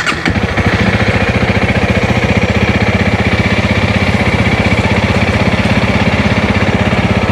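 Motorcycle engine just started, settling in the first second into a steady idle with an even beat. It is the first run after the bike stood in floodwater and had its oil flushed and refilled, and the idle sounds normal.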